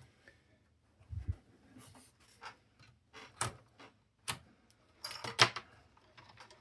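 Scattered clicks, knocks and rattles from parts and tools being handled on a workbench, with a dull thump about a second in and a louder cluster of knocks near the end.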